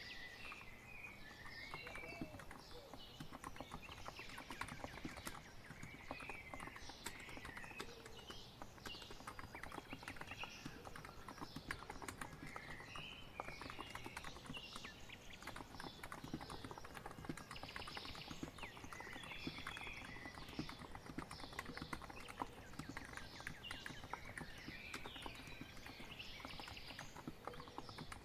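Continuous typing on a COX Empress electrostatic capacitive (Topre-style) keyboard: a quick, uneven run of soft keystroke clicks. Birds chirp and sing over the typing.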